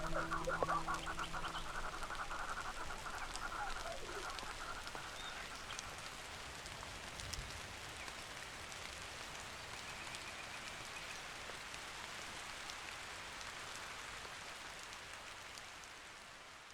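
Nature soundscape: a rattling animal call for the first few seconds, over a held note that stops shortly after the start, then an even rain-like hiss that slowly fades out.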